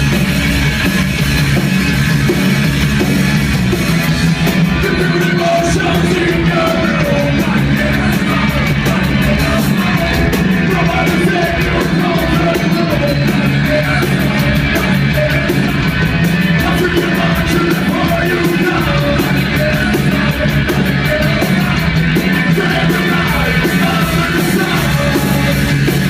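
A rock band playing loud, heavy punk-metal music with yelled singing.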